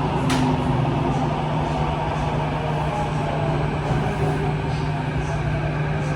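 Kawasaki–CRRC Qingdao Sifang T251 metro train heard from inside the carriage, running steadily with a low hum, rumble and loud wind noise as it approaches a station. A sharp click comes just after the start, and a pitched motor tone fades away within the first second.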